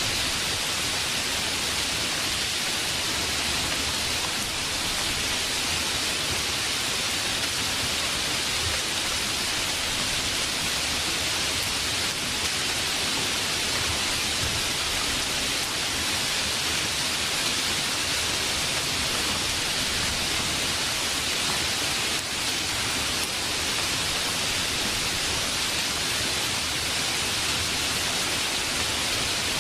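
Rain sound effect: a steady, even hiss of falling rain with no thunder.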